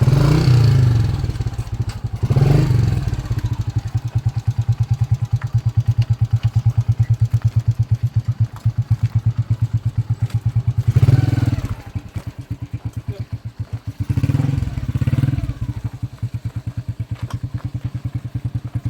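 Motorcycle engine running with a steady, rapid pulsing of its exhaust, revved up briefly at the start and again about two, eleven and fourteen seconds in.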